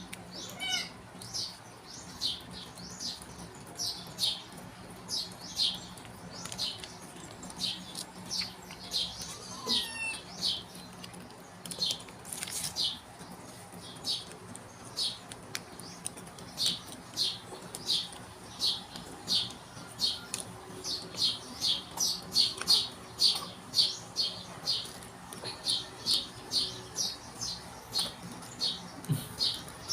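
A small bird chirping over and over in short, high chirps, about one or two a second, coming faster in the second half.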